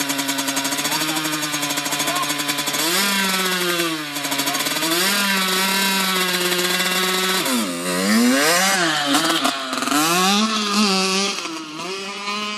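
Motocross bike engine running hard, its pitch rising and falling as the throttle is worked, with several quick up-and-down swings in the second half before it fades near the end.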